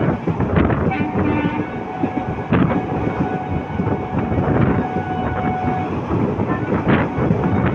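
Indian Railways express train running on the track: a loud, steady rumble broken by irregular sharp clacks of wheels over rail joints.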